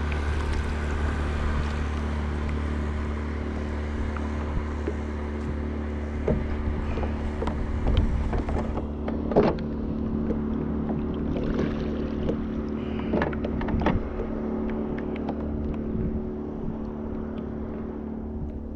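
Kayak rocking on a motorboat's wake: water slaps and knocks against the hull, over a steady low drone from a motorboat engine.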